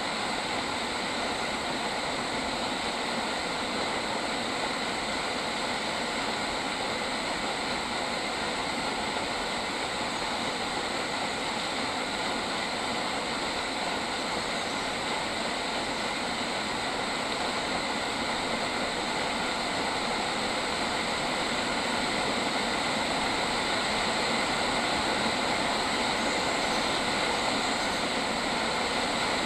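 Dense, steady chorus of insects, many steady buzzing pitches layered into one continuous wash, getting slightly louder near the end.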